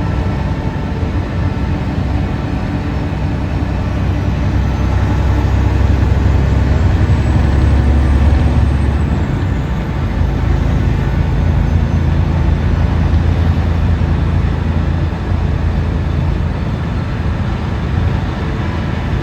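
A truck's engine drone and tyre-on-road noise heard inside the cab while driving, a steady low rumble that swells louder for a few seconds in the middle.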